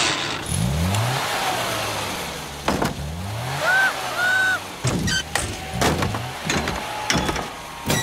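A small car engine revs up twice, rising in pitch as the gears are changed, followed by two short startled cries from a woman and then a run of knocks and thumps.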